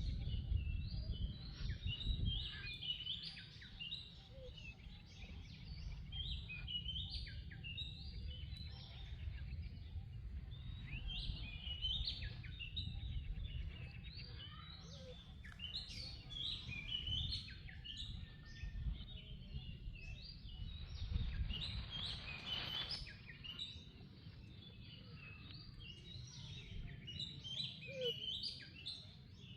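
Many short, high chirps and tweets, birds calling throughout, over a steady low rumble.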